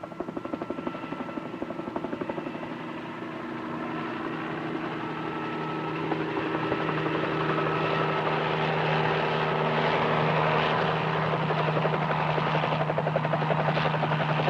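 Helicopter rotor chop and engine whine, growing steadily louder as the helicopter comes in to land.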